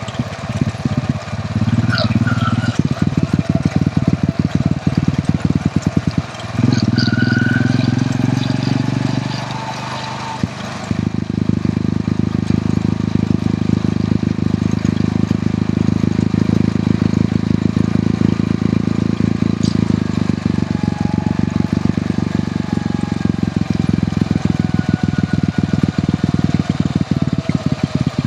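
Hero Honda CD100's small single-cylinder four-stroke engine running under way, its rapid firing pulses steady. The engine note eases off briefly about six seconds in and again around ten seconds, then picks back up.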